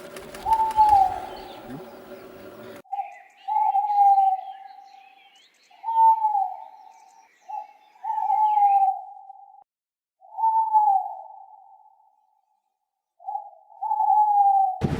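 Owl hooting: a series of single calls about every two seconds, each rising briefly then sliding down in pitch. Faint high chirps from other birds sit under the first half.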